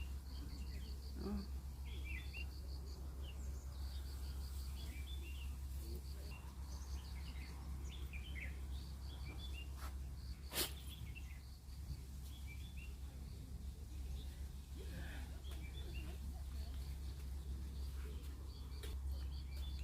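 Small birds chirping and twittering on and off, over a steady low rumble. A single sharp click about ten and a half seconds in.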